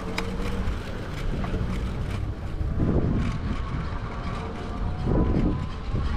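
Wind buffeting the microphone while riding an electric bike, over a steady rumble of road noise, swelling twice around the middle.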